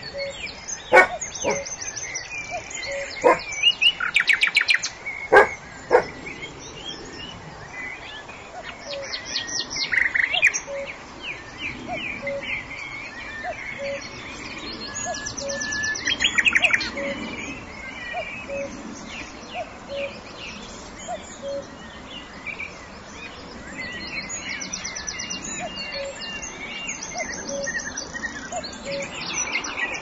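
Birds chirping and trilling in short high phrases. There are a few sharp clicks in the first six seconds, and a soft low note repeats about once a second.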